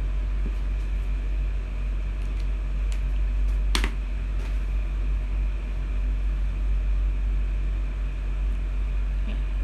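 Steady low hum, with a few faint clicks and one sharp click about four seconds in.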